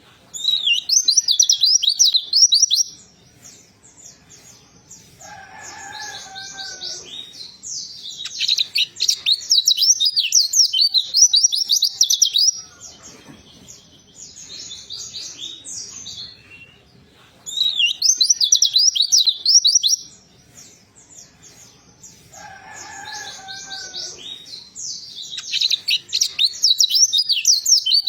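White-eye (pleci) singing in loud bursts of rapid, high, twittering warble, each a few seconds long, with quieter chatter in between. Twice a softer, lower call is heard between the bursts.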